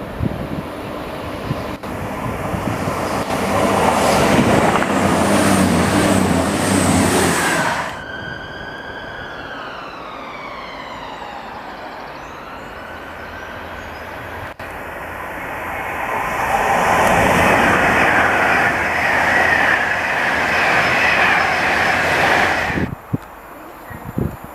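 A train passes through the station, loud and rushing, in two swells. Between the swells, about eight seconds in, a multi-toned whine dips in pitch and then climbs again.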